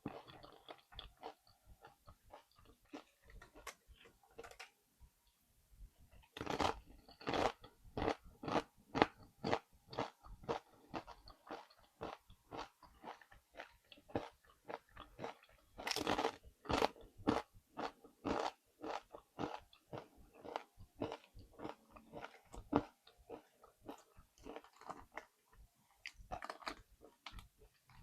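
Close-miked crunching of Doritos tortilla-chip nachos being bitten and chewed: rapid, irregular crisp crunches, lighter at first and then dense and loud from about a quarter of the way in.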